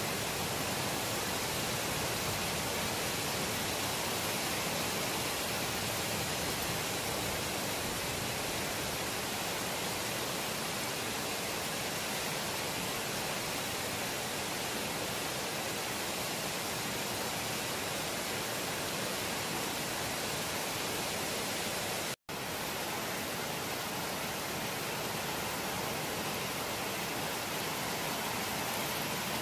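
Heavy rain falling during a thunderstorm, a steady even hiss with no thunder heard; the sound cuts out for an instant about two-thirds of the way through.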